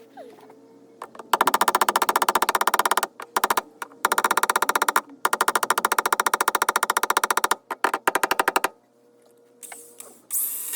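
Welder tacking drilled holes in a car body panel: a fast, even crackling buzz in three bursts of one to two seconds each, followed by a few very short blips.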